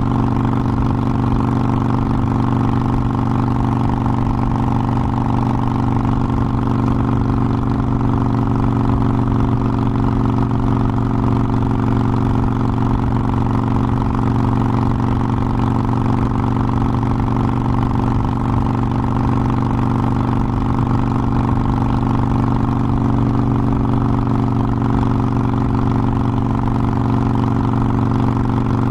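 Harley-Davidson Forty-Eight Sportster's air-cooled 1200 cc V-twin running at a steady speed, its pitch holding level throughout.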